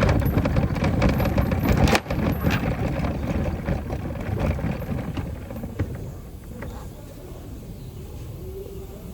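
Workshop noise: dense metallic clicking and clatter of tools over a low rumble, loudest in the first couple of seconds and fading over the second half.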